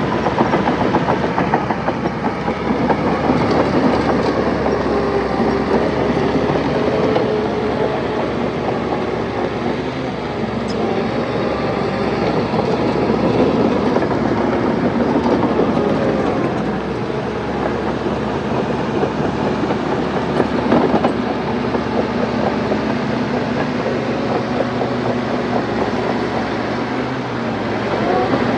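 Crawler bulldozer working: its diesel engine runs steadily under a continuous rapid clatter of steel tracks.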